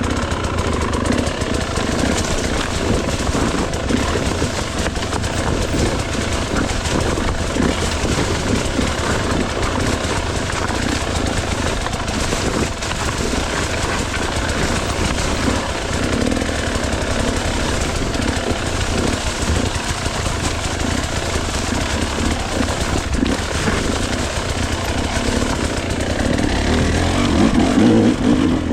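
Gas Gas hard enduro dirt bike engine running and revving under load over loose rocky terrain, with constant clatter and jolting from the bike. The engine gets louder near the end.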